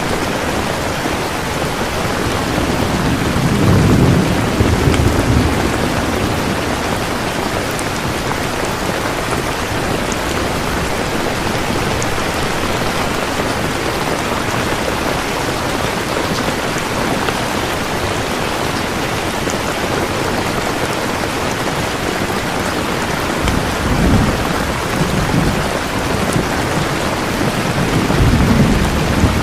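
Steady, heavy rain falling in an even hiss. Low rumbles of thunder swell up about four seconds in and twice more near the end.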